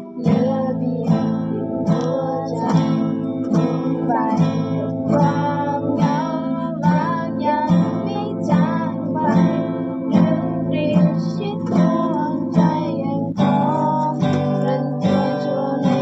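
Acoustic guitars playing together: a steady strummed rhythm with a picked melody line sliding above it.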